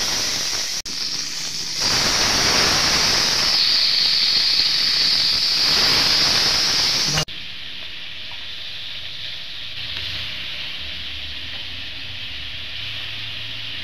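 Small fish sizzling as they fry in oil in a wok, a loud steady hiss that drops to a quieter sizzle about seven seconds in.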